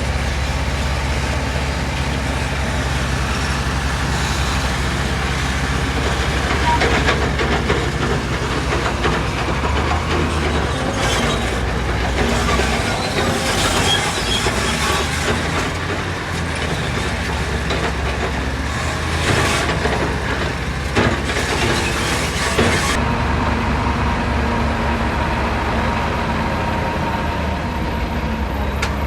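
Heavy diesel construction machinery running steadily, with repeated metallic clanking and rattling over the engine drone. The clatter stops abruptly about three quarters of the way through, leaving the steady engine.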